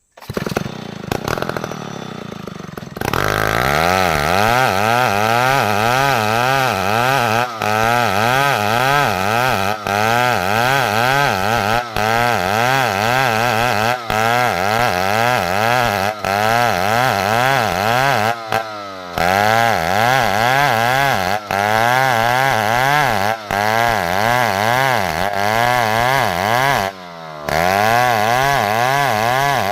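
Chainsaw engine running hard under load, its pitch wavering up and down continuously as it cuts. It gets much louder about three seconds in, with brief drop-outs every couple of seconds.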